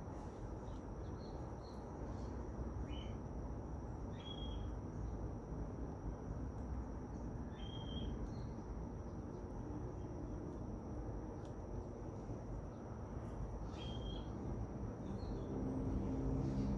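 Outdoor nature ambience: a steady, high-pitched insect-like drone over a low rumble, with short bird chirps every few seconds, four in all.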